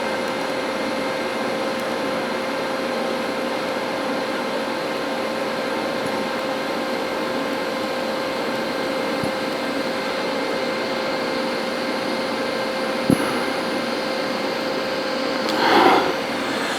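TIG welding arc on stainless steel, a steady hiss with a faint even hum, with one brief click about two-thirds of the way in.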